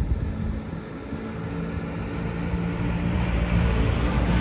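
Engine of a 1981 Land Rover Series 3 running at low speed with a steady low hum, growing gradually louder as the vehicle draws near.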